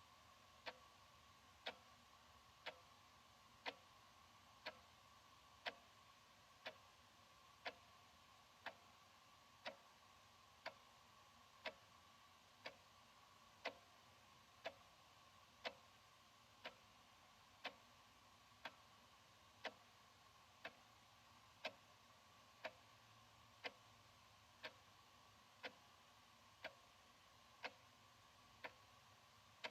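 Analog wall clock ticking steadily, one sharp tick a second, with a faint steady hum underneath.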